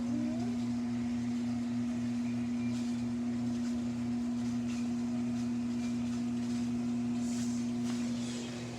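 Samsung washing machine's drain pump running with a steady hum as the drum drains, fading near the end.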